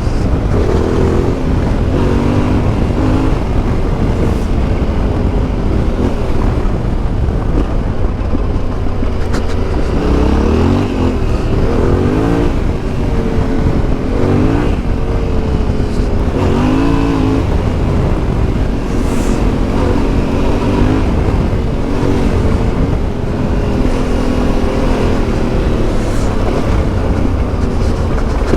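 Yamaha Ténéré 700's CP2 parallel-twin engine with an Akrapovic exhaust, riding under way. The engine note rises and falls again and again as it accelerates, shifts and eases off.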